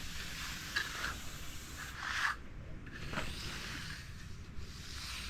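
Repeated swishing scrapes of a hand finishing tool drawn across wet concrete, a few strokes about a second apart, working colour into the surface.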